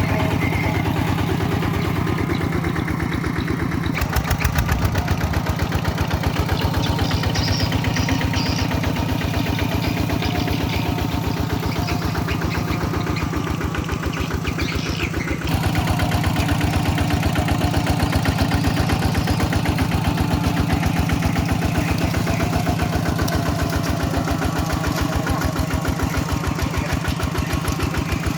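Kubota tractor's diesel engine running steadily with an even firing beat, its sound shifting abruptly twice, about a third and about halfway through.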